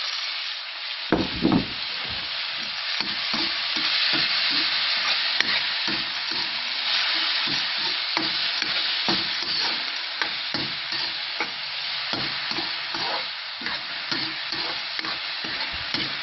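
Chopped tomatoes sizzling in hot oil with garlic and onion in a frying pan, stirred with a utensil that knocks and scrapes against the pan again and again. A couple of louder knocks come about a second in.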